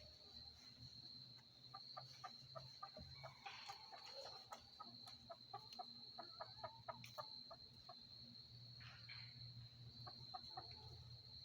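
Chickens clucking softly in a run of short, quick clucks, thickest in the middle and picking up again near the end. Crickets trill steadily underneath.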